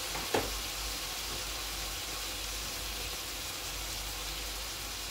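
Salmon fillet and chopped vegetables frying in butter in a frying pan, a steady sizzle, with one brief voice sound about a third of a second in.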